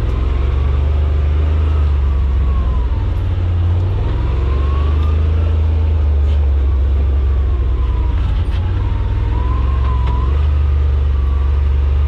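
Side-by-side UTV engine running steadily under way on a trail, a loud low drone with a thin whine over it that slowly rises and falls as the speed changes.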